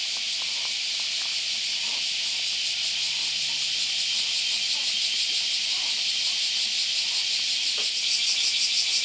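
Cicadas buzzing in a dense, steady high-pitched drone that takes on a fast pulsing rhythm and grows a little louder over the second half.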